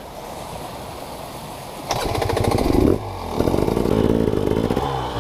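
Dirt bike engine running at low throttle, then opened up sharply about two seconds in and kept running hard under load.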